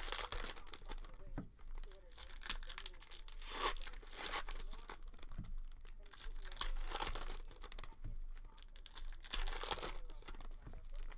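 Plastic and foil wrapping of basketball trading card packs being torn open and crinkled, in irregular rustles one after another.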